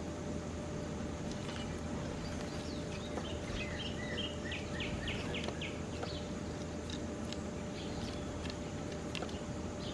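Songbirds chirping in short high notes, with a quick run of chirps about four to five seconds in, over a steady low rumble of background noise and a thin steady hum.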